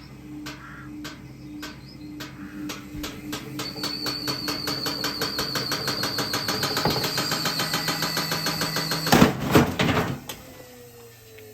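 LG washing machine's drum knocking against the cabinet as the spin speeds up, its shock absorber snapped so the load runs badly off balance. The knocks quicken from about two a second to several a second and grow louder, with a thin high whine, then two loud bangs about nine seconds in, and the machine stops.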